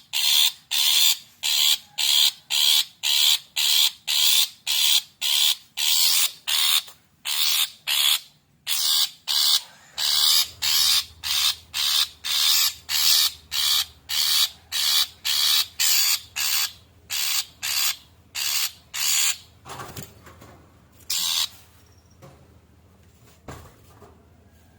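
Long-tailed shrike (cendet) giving a rapid run of harsh, rasping calls, about two a second: the agitated calling used as a lure to provoke other shrikes into calling. The run stops about twenty seconds in, with one last call shortly after.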